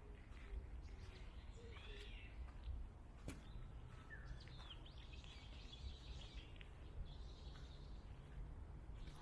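Small birds chirping and calling now and then over a faint low rumble, with one sharp click about three seconds in.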